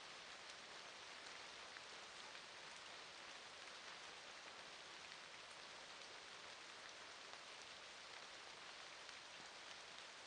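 Steady rain falling, a faint even hiss with scattered small drop ticks.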